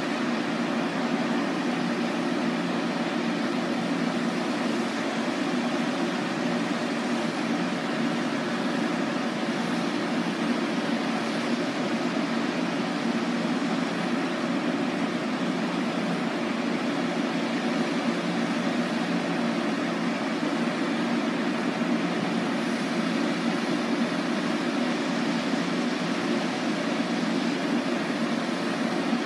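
Steady fan-like hum and hiss of a stopped NJ Transit electric commuter train idling at the platform: the ALP-46A locomotive's cooling blowers and the coaches' ventilation running, with no change in level.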